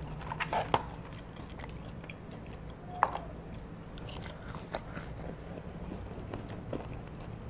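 Close-miked chewing and mouth sounds of someone eating French fries, with scattered small clicks and the odd rustle of the paper fry carton as fries are picked out. A sharper click stands out about three seconds in.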